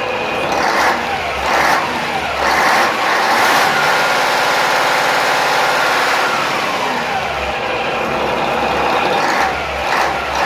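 Scania DSI14 V8 diesel marine engine being revved: several quick throttle blips, then held at high revs through the middle, dropping back about seven seconds in, followed by more quick blips near the end.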